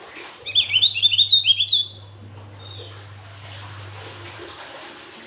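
Javan grey-throated white-eye (Opior Jawa) giving a rapid burst of about eight quick rising chirps lasting around a second and a half, over a steady low hum.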